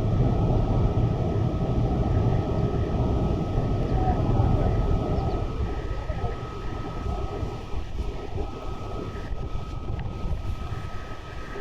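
Tour boat under way on a river: a steady low rumble of engine and moving air, with a thin steady whine above it, slowly fading.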